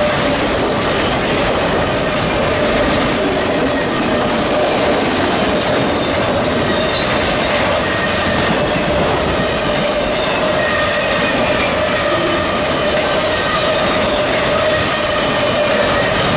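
Freight train cars rolling past: steady wheel-on-rail noise with a thin, steady squeal from the wheels.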